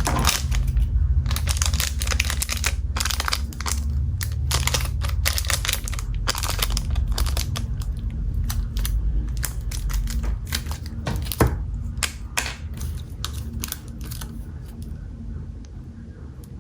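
Dense clicking and rustling handling noise over a low rumble, from a vintage Zippo lighter being handled and turned over, growing quieter near the end.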